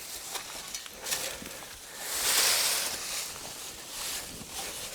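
Crackling and rustling of dry brush and leaves as people move through undergrowth, with a louder rush of rustling about two seconds in that lasts about a second.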